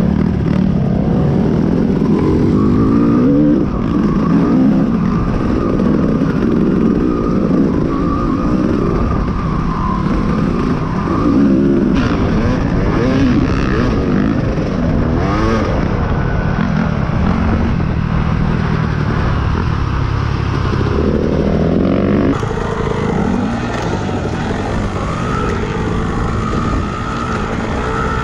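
Dirt bike engine running hard under a rider, its pitch rising and falling constantly with the throttle. The sound changes abruptly about 22 seconds in.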